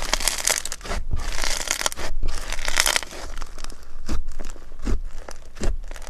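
Slime being squeezed and pressed by hand, with dense crunchy crackling for about three seconds, then a string of separate crunches.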